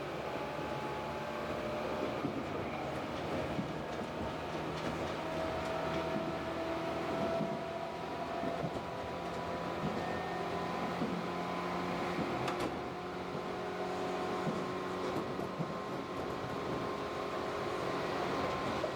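Tobu 8000 series electric train running at speed, heard from inside the passenger car: a steady rumble of wheels on rail with a faint motor tone.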